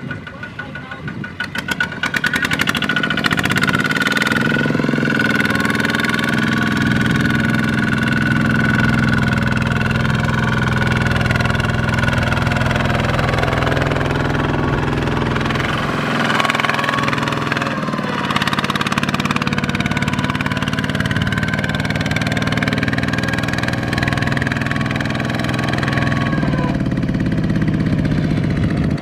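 Small single-cylinder diesel engine of a Kubota RT/ZT-series tractor running at high revs. It speeds up about two seconds in, eases off briefly around the middle, picks up again and drops back near the end.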